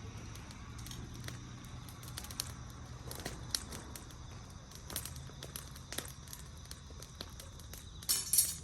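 Wood fire crackling, with irregular sharp snaps scattered throughout and a brief louder rustle near the end.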